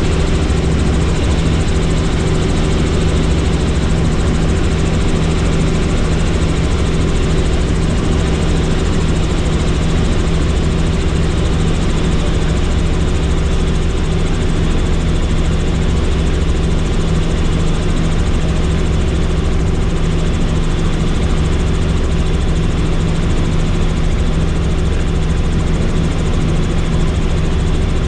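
Helicopter engine and rotor noise heard from inside the cabin in flight: a loud, steady drone with a constant low hum.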